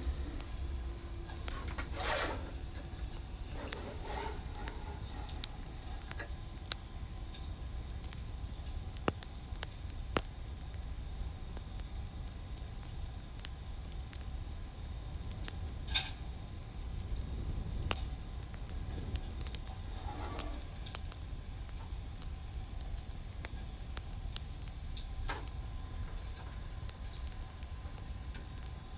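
Wood fire crackling: a steady low rumble with frequent scattered sharp pops and snaps.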